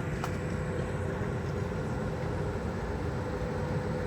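Steady rumble and hum inside a Tilt Train passenger car, with a single faint click about a quarter second in.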